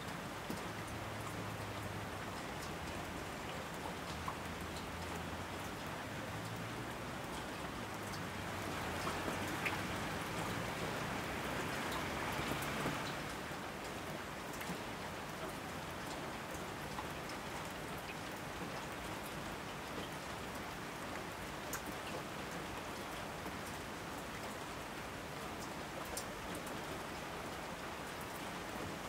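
Steady rain falling, with scattered single drops ticking sharply. The rain swells louder for several seconds about a third of the way in, then settles back.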